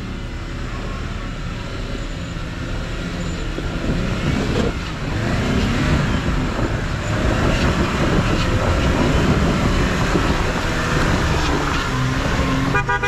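Jeep Wrangler JL's engine pulling hard up a steep, rutted dirt hill. It grows louder about four seconds in as the Jeep climbs close by.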